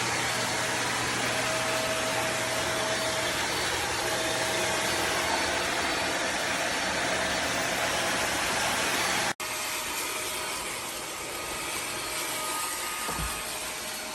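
iwoly V600 corded stick vacuum's motor running with a steady whooshing whir. About nine seconds in it cuts off abruptly and resumes straight away, a little quieter.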